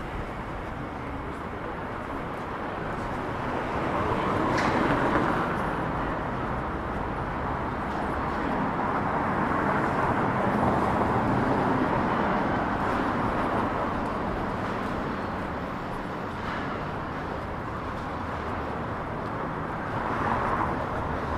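City street ambience with vehicle traffic passing, swelling louder about four to six seconds in and again around ten to thirteen seconds.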